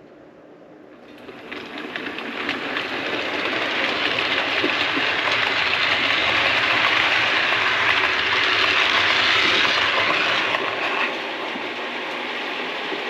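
A train running past, rising over the first few seconds as it approaches, steady and loudest in the middle, then easing about eleven seconds in.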